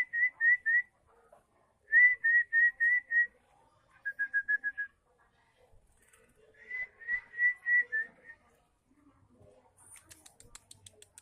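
Clear whistled notes in short runs of five or six quick, identical notes, four runs with pauses between them; the third run is lower and faster. A faint rapid high ticking comes in near the end.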